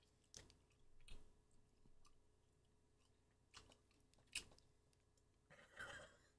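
Near silence, with a few faint, scattered mouth clicks from chewy candy being chewed, and a short soft rustle near the end.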